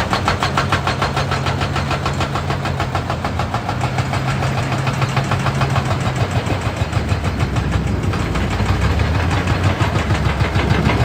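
Hitachi EX200 excavator's hydraulic breaker hammering rock in a rapid stream of blows over the steady run of its diesel engine. The hammering stops about eight seconds in and the engine keeps running.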